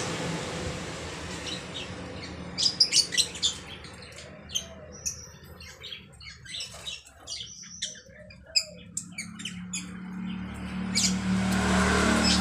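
Pet starling (jalak) giving a string of short, sharp, high-pitched chirps and calls, loudest in a quick cluster about three seconds in. A low steady hum runs underneath and grows louder near the end.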